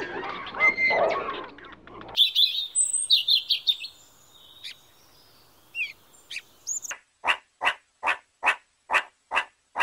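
A run of animal calls in three parts: a tangle of zebra calls for about two seconds, then scattered high thin gull cries, then from about seven seconds in a meerkat's regular series of short sharp peeps, a little over two a second.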